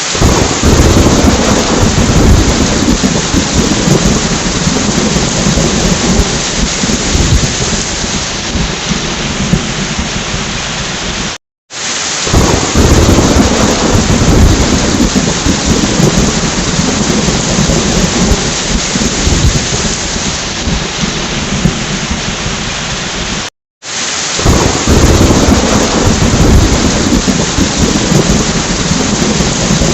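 Heavy rain with rolling thunder rumbling underneath. The sound cuts out completely for a split second twice, about 11 and 23 seconds in, and the rumble swells up again just after each restart, as a short recording loops.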